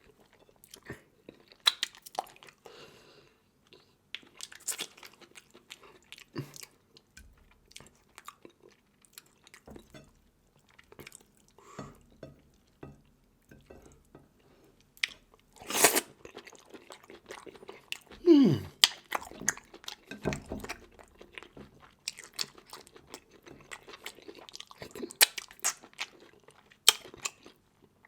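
Close-miked eating sounds: someone chewing, biting and crunching through seafood such as crab shell, prawns and fish bone in okra soup, with irregular sharp cracks, the loudest about halfway through, and a short falling mouth sound a little after it.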